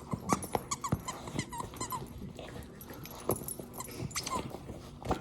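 Yellow Labrador chewing and worrying a thick canvas plush toy: a busy run of short knocks and clicks, with several brief high squeaks.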